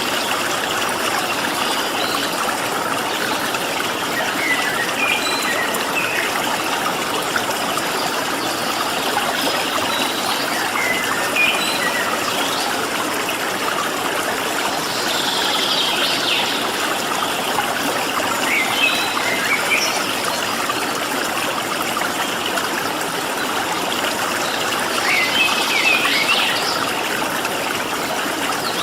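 A stream of running water rushing steadily, with small wild birds giving short, scattered chirps over it, in a few brief flurries.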